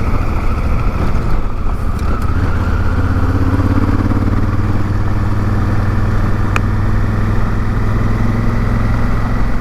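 Honda Africa Twin's parallel-twin engine running under way on a gravel road, with tyre and wind noise; the engine note picks up slightly about three seconds in, and a single sharp click, like a stone striking the bike, is heard near the middle.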